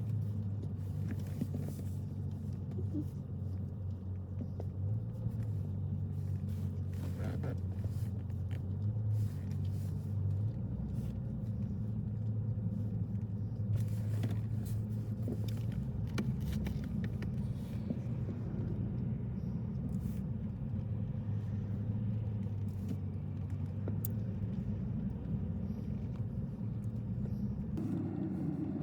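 A car driving, a steady low rumble of engine and tyres on the road, with occasional faint clicks.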